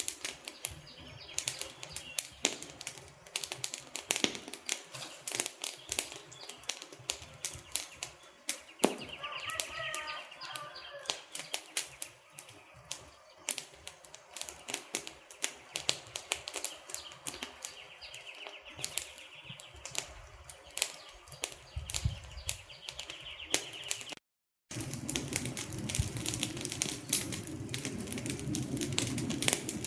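Wood fire crackling, with dense irregular sharp pops and snaps of burning logs. About 24 seconds in the sound cuts out for a moment, then resumes with a steadier low rumble of flames under the crackling.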